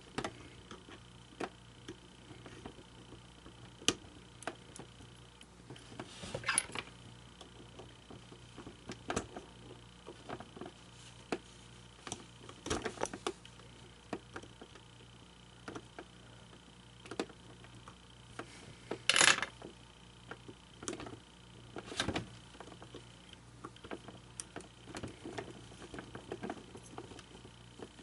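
Scattered small clicks, taps and scrapes of hands handling the plastic parts of an animated figure's mouth mechanism, with two louder scraping noises, over a faint steady hum.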